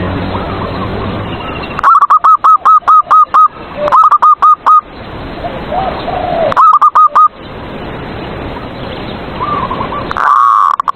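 Zebra dove (perkutut) cooing: loud runs of quick, clipped, repeated notes, in three bursts about two, four and six and a half seconds in, over a steady background hiss.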